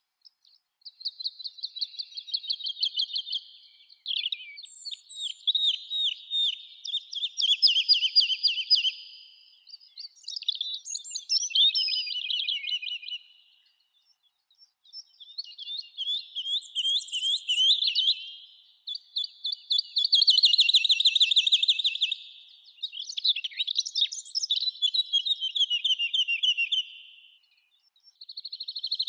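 Songbird singing a run of rapid, trilled phrases, each two to four seconds long, with short pauses between them.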